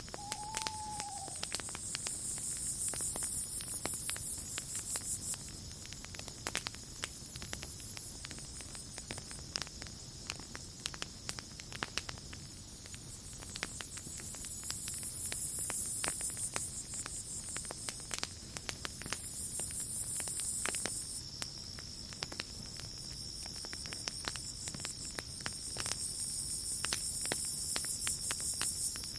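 Campfire crackling with irregular sharp pops, over night insects: a steady high cricket trill and higher insect buzzing that swells and fades every few seconds.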